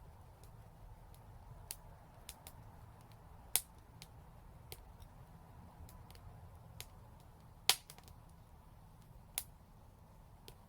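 Wood fire crackling: scattered sharp pops and snaps over a faint low background, the two loudest about three and a half and seven and a half seconds in.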